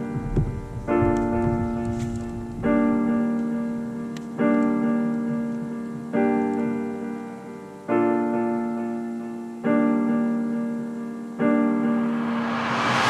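Background piano music: sustained chords struck about every two seconds, each fading away before the next.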